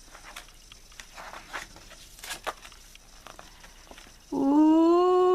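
Light paper rustling and clicks as a picture book's pages and flaps are handled, then about four seconds in a loud, drawn-out spooky ghost "ooooh" voiced by a woman, held steady and starting to sag in pitch.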